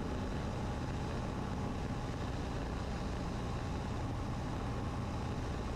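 Cessna 150's four-cylinder Continental O-200 engine and propeller droning steadily, heard from inside the cabin at reduced power on the landing approach.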